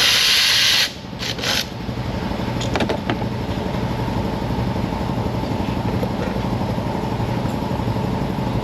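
A loud hiss of air for about the first second, then two short hisses. After that, a steady low engine-like hum carries on, with a few light clicks a few seconds in.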